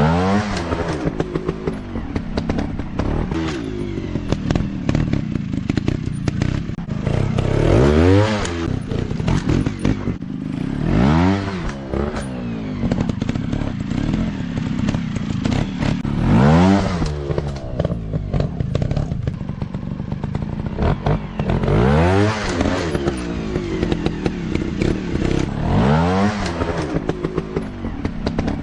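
Dirt bike engines running, with about six surges where the engine pitch climbs sharply and drops back again.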